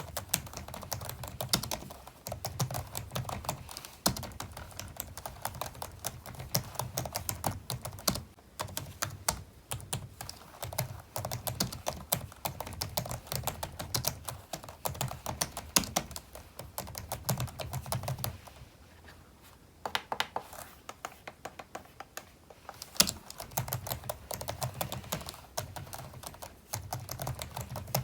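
Computer keyboard being typed on steadily, a dense run of key clicks and thocks. The typing stops briefly about two-thirds of the way in, then resumes.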